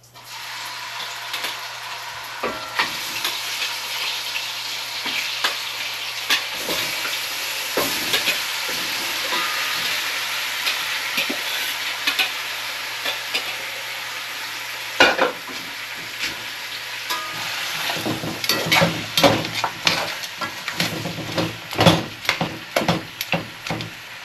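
Seasoned pig feet going into hot oil with burnt curry and sizzling hard in the pot, the hiss jumping up at once as the meat goes in. In the last third a utensil knocks and scrapes repeatedly against the pot as the pieces are stirred.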